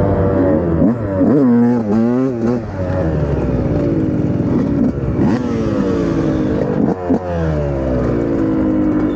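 Dirt bike engine running under throttle, the revs rising and falling. There is a quick series of throttle blips about a second in, and sharp jumps in revs around five and seven seconds in.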